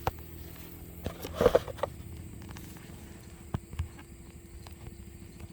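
Handling noise of a phone camera being set in place and balanced: scattered knocks and taps against the mic, with a louder scrape and rustle about a second and a half in.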